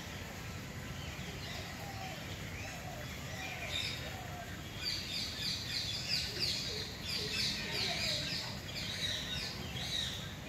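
Small birds chirping busily in quick, short notes, getting denser and louder about halfway through, over a steady low background rumble.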